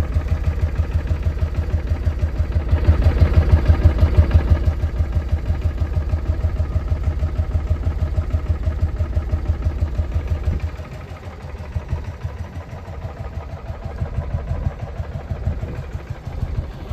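Suzuki VX800's V-twin engine idling with its pulsing beat. It swells in a light rev about three seconds in, then runs noticeably quieter and less even from about eleven seconds in.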